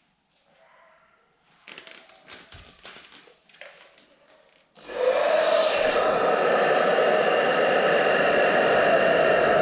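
Light handling clicks and rustles, then about five seconds in a small electric motor switches on, spins up and runs steadily with a whirring hum.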